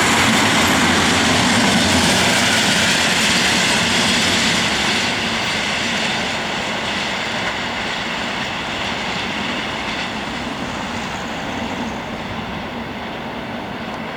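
Freight train rolling past on the rails in a steady wash of wheel and rail noise that gradually fades over the second half.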